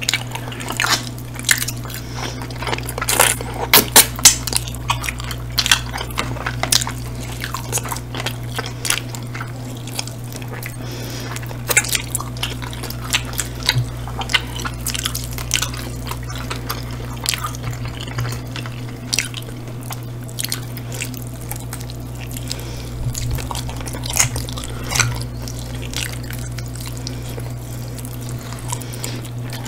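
Close-miked wet mouth sounds of two people eating saucy hot wings dipped in creamy dip: many sharp sticky smacks and clicks of chewing and lips, thickest in the first few seconds, over a steady low hum.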